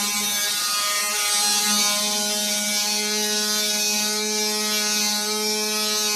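Work Tough 20-volt cordless oscillating multi-tool running steadily with a sanding pad, sanding down solid epoxy: an even, high buzz with a gritty hiss over it.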